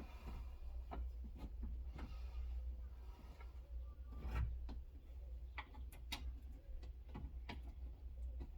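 Irregular light clicks and knocks of metal parts and tools being handled inside a car door while a window regulator is lined up and fitted, over a steady low hum.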